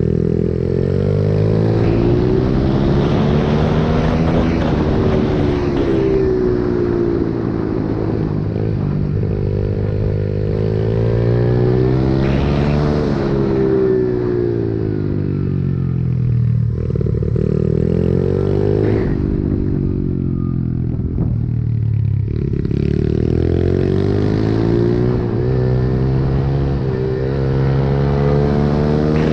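Pit bike engine being ridden hard, its note rising and falling every few seconds as the throttle opens and closes, with several sudden drops off the throttle.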